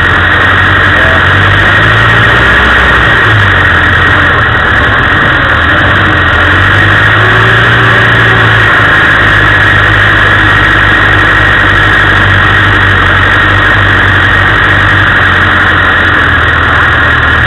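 Land Rover engine running as it drives off-road, its note rising twice with the throttle, under a loud steady hiss.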